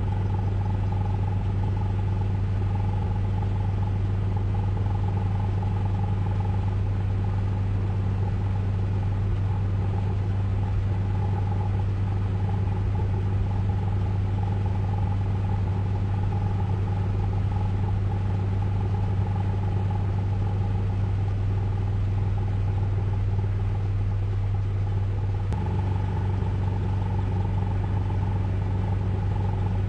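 Ryko Radius automatic car wash running with a steady low mechanical hum and a higher steady tone above it, shifting slightly in character a few seconds before the end.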